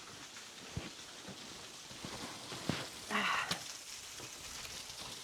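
Steady rushing hiss of falling water from a waterfall, with a few scattered footsteps and scuffs on rock. There is a brief murmur of a voice a little past halfway.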